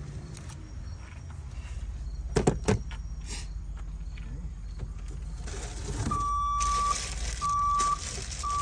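Two sharp knocks in quick succession about two and a half seconds in, over a steady low rumble; from about six seconds a vehicle backup alarm beeps, a single high tone repeating roughly once a second.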